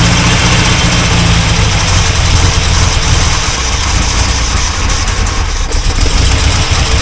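Chevrolet 350 V8 in a C4 Corvette running steadily, just brought back to life after an engine reinstall. Its ignition timing is not yet set, and it is being fed by an Edelbrock carburetor that is struggling with too much fuel pressure.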